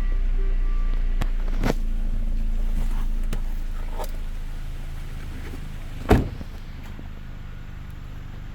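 2010 Hyundai ix35's 2.4-litre four-cylinder petrol engine running, its revs easing down over a few seconds to a steady idle. A few light clicks are heard, and one sharp loud clack about six seconds in.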